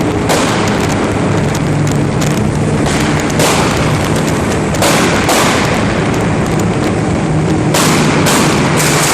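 Tuned car exhaust popping and banging in many irregular cracks over the running engine.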